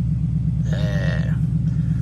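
Ford Mustang GT's 5.0 V8 idling through a straight-piped exhaust with no valves: a steady, pulsing low rumble that stays even throughout.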